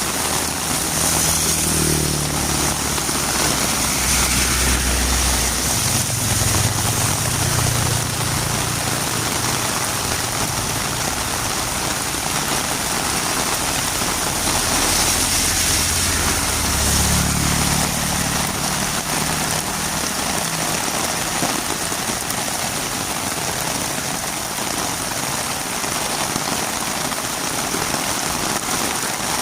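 Heavy rain falling steadily. A low engine hum rises and fades twice, once over the first several seconds and again about halfway through.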